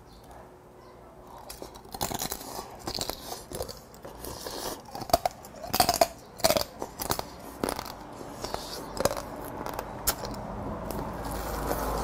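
Crunching and chewing of a small soy-sauce-marinated crab, its shell cracking between the teeth in irregular bites from about a second and a half in.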